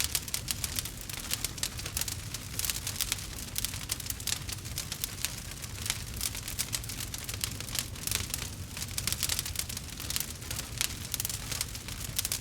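Campfire crackling: a dense, irregular run of small sharp pops and snaps over a steady low rumble.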